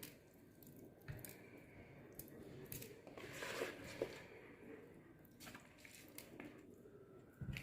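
Faint, scattered wet squishes and soft knocks: oil-coated chicken pieces and vegetables being placed by hand in a baking tray.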